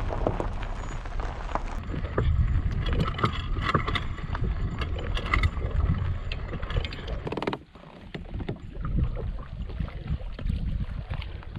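Wind buffeting the microphone over the sound of a kayak moving on the water, with water noise and scattered small knocks. The sound changes abruptly about two seconds in and drops out briefly near eight seconds.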